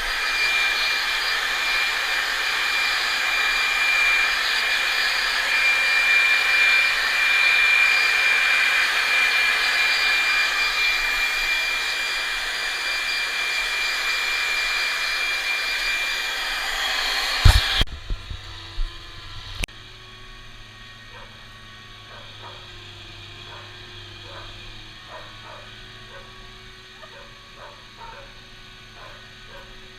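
Hair dryer blowing steadily with a thin high whine, then switched off about two-thirds of the way through with a few knocks, leaving a faint low hum.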